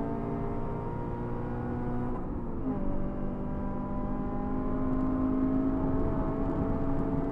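2016 Scion FR-S's 2.0-litre flat-four engine at full throttle, heard from inside the cabin over road noise: revs climbing in third gear, an upshift to fourth about two and a half seconds in that drops the pitch, then climbing again.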